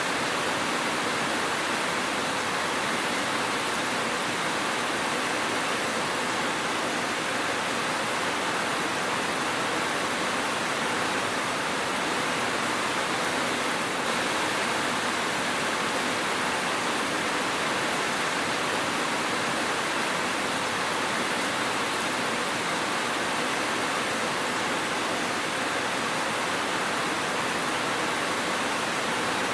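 Steady rainfall, an even hiss that does not change, with no thunder or separate drops standing out.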